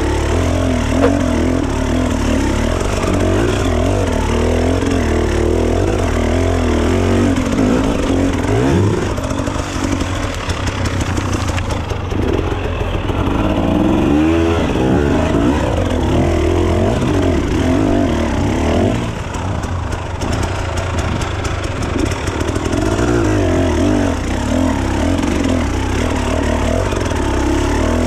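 Enduro dirt bike engine running hard and revving up and down again and again, its pitch rising and falling with the throttle.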